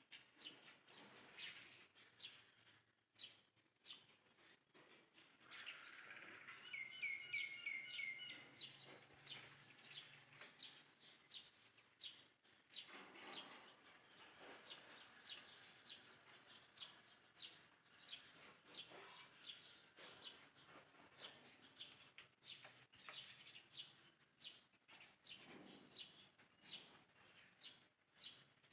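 Faint birdsong: many short chirps keep repeating, with a quick series of brighter notes about seven seconds in.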